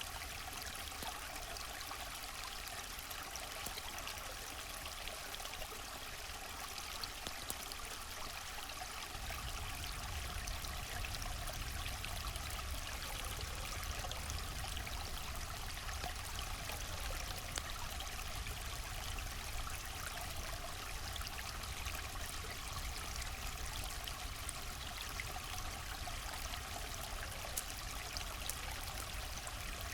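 River water flowing steadily, an even rushing with a deeper low rumble that strengthens about nine seconds in.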